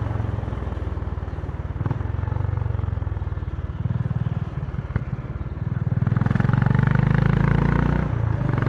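Honda CB350's air-cooled single-cylinder engine and exhaust running on the road, a steady low thump of firing pulses. The note grows louder and fuller about six seconds in.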